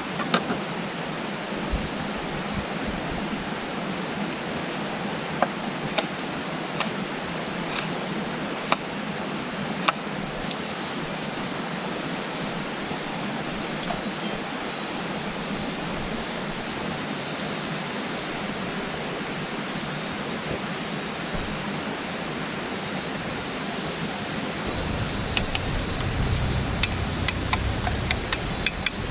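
Steady rush of running water from a stream or waterfall, with a high steady hiss above it and scattered sharp clicks. The high hiss gets louder about ten seconds in and again near the end, and low rumble comes in near the end.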